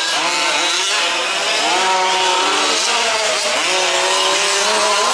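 Several 1/5-scale RC off-road trucks' small two-stroke petrol engines racing together, their buzzing pitches rising and falling as throttles open and close.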